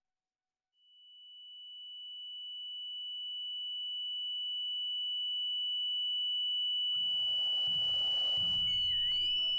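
A single steady high-pitched pure tone, like ear ringing, fading in about a second in and growing slowly louder. Around seven seconds a low rumble and hiss come in under it, with a few short gliding chirps near the end.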